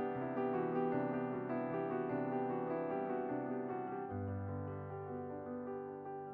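Background piano music, a slow run of soft notes over a held bass that changes about four seconds in.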